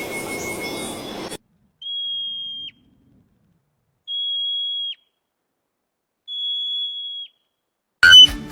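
Three long, steady, high-pitched whistles at even spacing, each under a second long and ending with a brief downward flick, most likely a bird's whistled call. Before the first whistle there is a second or so of noisy outdoor-like ambience with thin high tones in it.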